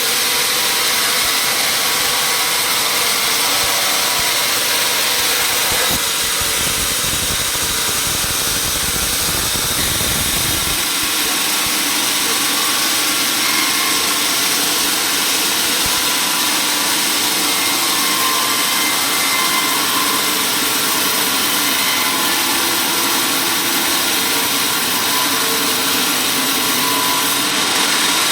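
Sawmill machinery running steadily, with a heavier low rumble from about six to eleven seconds in.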